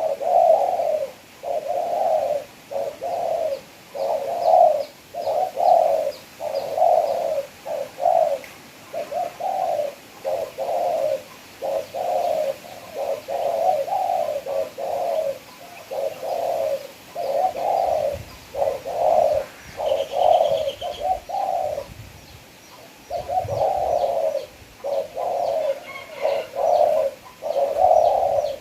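Spotted dove cooing: a steady run of low, hooting coo notes, about two a second, with a short pause about three-quarters of the way through. Faint high chirps of small birds sound behind it.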